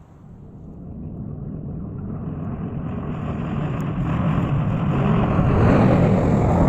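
ZIL-157 truck's inline-six petrol engine running, growing steadily louder.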